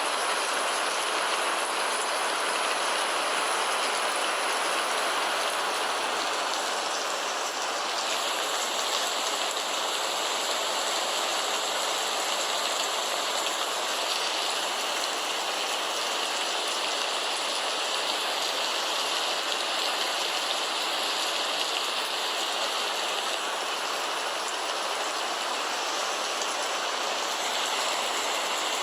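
Steady rain falling, an even hiss with no breaks, a little brighter and hissier from about eight seconds in.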